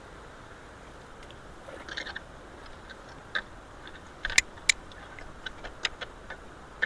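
Steady rush of creek water flowing through road culverts, with scattered sharp clicks and knocks, the loudest two close together about four and a half seconds in.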